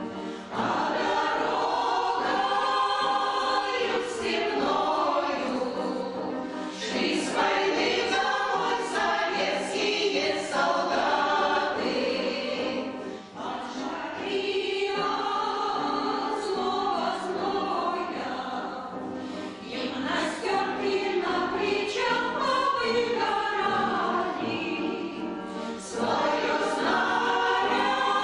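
A choir singing a song in Russian, in phrases with short breaks between them.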